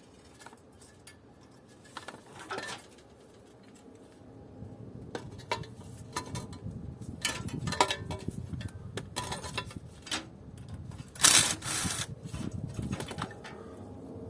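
Metal parts from a dismantled air conditioner clinking and clattering as they are handled, with a louder clatter about eleven seconds in.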